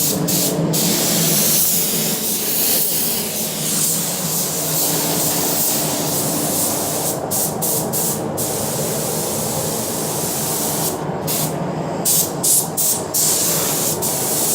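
Compressed-air spray hissing steadily over a low hum, stopping and restarting briefly several times in the second half as the trigger is let go.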